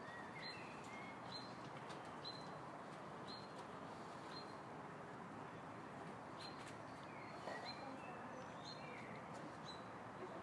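A small bird chirping, repeating a short high note about once a second, with a few lower sliding calls mixed in.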